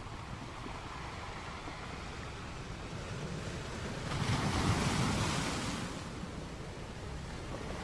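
Sea waves washing ashore: a steady surf hiss, with one wave swelling up and breaking about halfway through, then subsiding.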